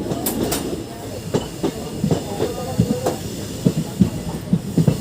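Passenger train running on the rails, a steady rumble broken by irregular clacks of the wheels over rail joints.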